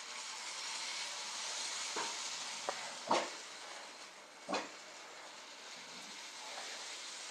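Toy train running on its track with a steady hiss, and four sharp clicks in the middle of the stretch.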